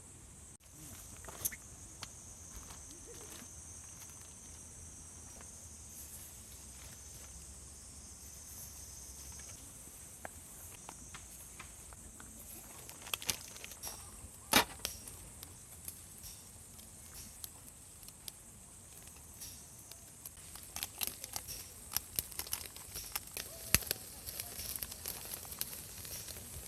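Irregular sharp clicks and knocks, a few at first and then coming thick and fast in the last several seconds. Under them, a steady high drone fades out about ten seconds in.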